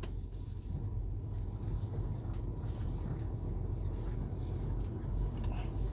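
Semi truck's diesel engine running with a steady low hum, heard from inside the cab.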